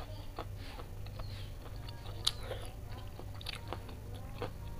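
Close-miked chewing with many small wet mouth clicks as a person eats noodles and rice, one sharper click a little past halfway. A steady low hum runs underneath.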